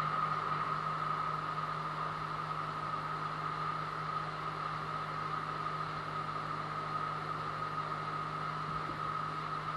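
An engine-driven machine running steadily at a constant speed, with a low hum and a steady high whine that does not change.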